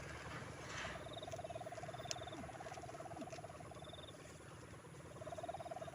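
Bamboo kite hummer (sendaren) droning on a flying kite, a faint pulsing hum that swells and fades with the wind, twice.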